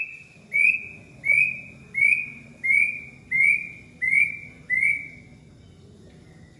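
A bird calling a series of about eight clear whistled notes, each a quick upward slide onto a steady held pitch, evenly spaced a little under a second apart. The series stops about five seconds in.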